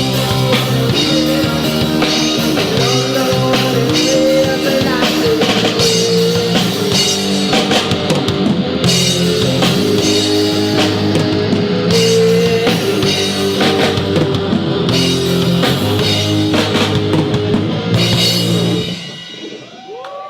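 Rock band playing, with a drum kit and guitar over a steady beat. The music stops about a second before the end, leaving cymbals ringing off.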